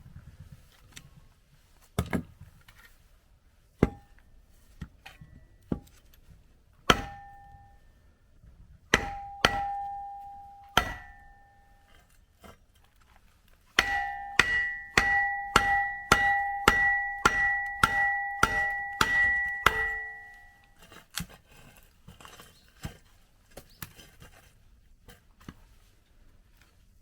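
Firewood splitting with hammer blows on a steel splitting wedge, each strike ringing with a metallic clang. Single blows come a few seconds apart at first. About halfway through, a fast steady run of roughly fifteen blows follows at about two a second, then it stops.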